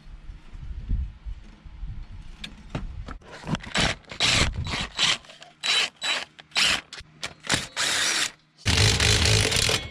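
Handheld power tool run in a series of short bursts, then one longer run near the end, driving out bolts while the intake parts are taken off the engine.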